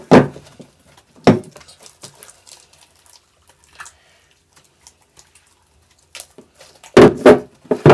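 Slime being squeezed and pulled by hand, giving short, loud wet squelches and pops: one at the start, one about a second in, and three close together near the end.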